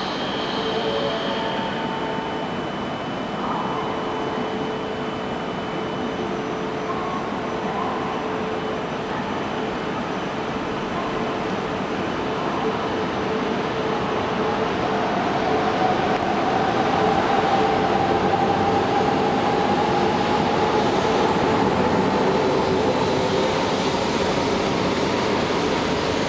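E4 series Max double-deck Shinkansen pulling out of the station. Its electric motors set up a whine that climbs in pitch as the train picks up speed, and the running noise grows louder from about halfway through.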